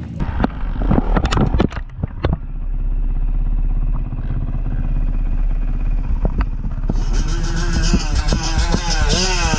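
Dirt bike engine running steadily, then revving, its pitch rising and falling from about seven seconds in. A few sharp knocks and clatters in the first couple of seconds.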